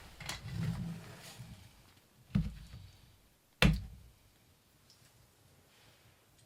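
Rustling handling noises, then two sharp knocks about a second apart, the second louder, like an object or door bumped shut.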